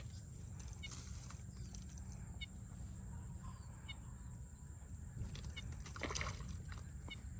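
Short bird calls repeating every second or two over a low outdoor rumble, with a brief splash or knock about six seconds in.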